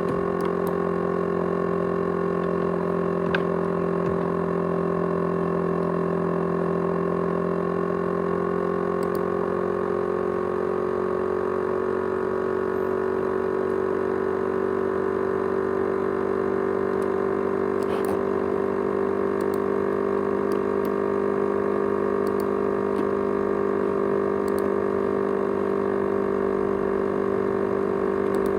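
A 500 GB USB hard disk drive running with a steady whining hum that drifts slightly in pitch, and a few faint clicks. This is the noise called its jet-engine sound.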